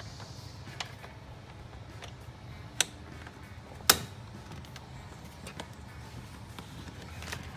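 Sharp plastic clicks as a car airbox lid and its clips are pressed back into place, two loud snaps about three and four seconds in, over a low steady hum.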